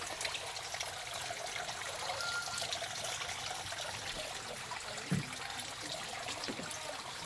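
Running water trickling steadily, with a brief faint whistle about two seconds in.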